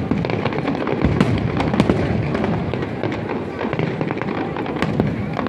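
Fireworks display: a dense run of aerial shell bursts and crackling, with sharper bangs about a second in, near two seconds and near five seconds.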